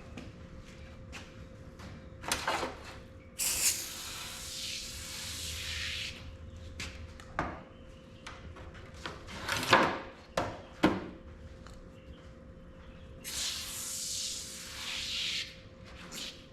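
Aerosol can of degreaser spraying onto a saw blade: two long bursts of hiss, the first about three seconds in and the second near the end. Sharp knocks and clunks from handling the blade and can come in between.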